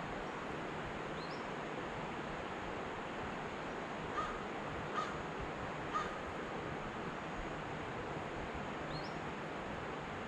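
A bird gives three short calls about a second apart, with two faint high rising chirps before and after, over a steady rushing outdoor background noise.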